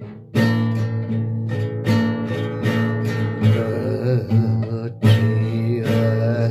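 Acoustic guitar strummed in a steady rhythm, with a strum about every second, between the sung lines of a song.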